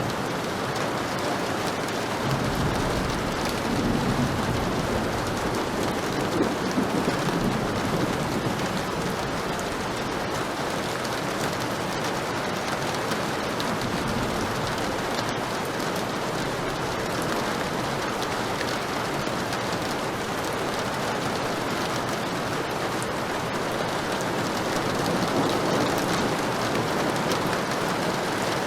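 Heavy rain falling steadily, with a low roll of thunder rumbling from about two seconds in for several seconds.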